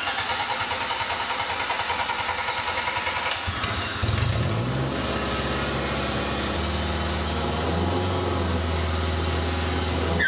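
Toyota 4A-GE twin-cam inline-four engine, newly swapped into a Lotus Europa, being cranked on the starter for about three and a half seconds. It catches about four seconds in, revs briefly, then settles into a steady idle.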